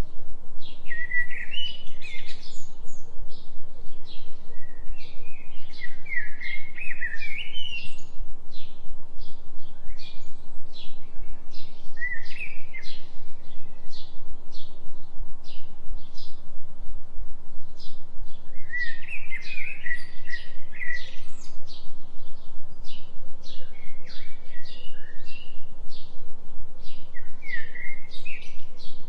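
Songbirds chirping and singing in a forest soundscape: short high chirps all the way through, with fuller song phrases every few seconds. Under them runs a steady low hum from a binaural delta-wave tone.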